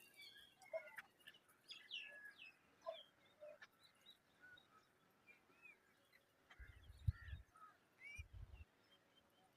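Faint, scattered bird chirps and short calls, with a few low thumps about two-thirds of the way through.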